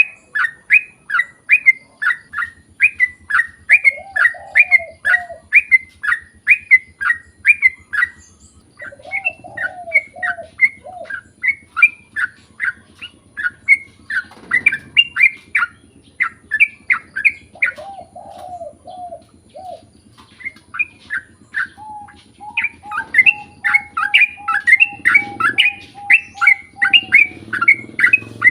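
Yellow-vented bulbul (trucukan) singing a long, fast run of short sharp chirps, about two a second, breaking off briefly a few times. Short lower warbled phrases come in now and then, and a held note sounds near the end.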